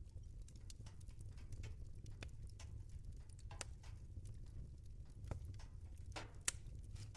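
Wood fire in a fireplace crackling: irregular sharp pops and snaps over a low, steady rumble, with one louder pop near the end.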